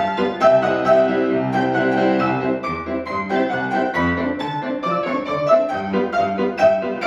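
Piano played four hands: a fast, lively duet with quick repeated notes over a steady bass.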